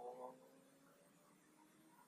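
Near silence: faint background ambience, with a brief faint tone at the very start.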